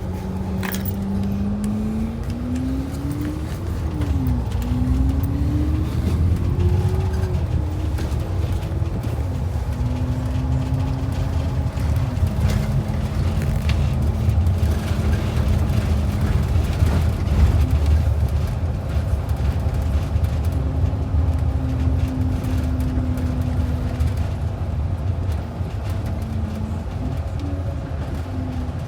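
Transit bus engine and drivetrain running under way, a steady low rumble with a whine that rises, drops back and rises again several times in the first half, as with gear changes while accelerating, then holds roughly steady.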